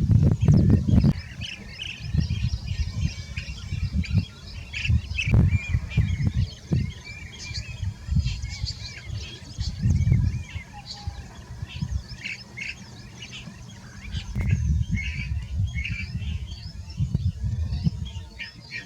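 Blue-tailed bee-eaters calling at their nesting colony: many short, overlapping chirping calls, with loud low rumbling bursts underneath.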